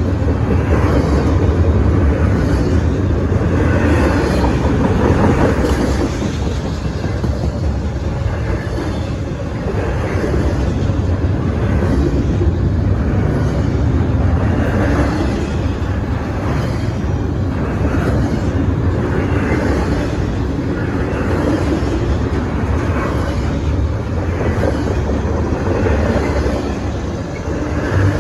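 Double-stack intermodal freight cars rolling past: a steady rumble of steel wheels on rail, with a regular beat of wheel clacks.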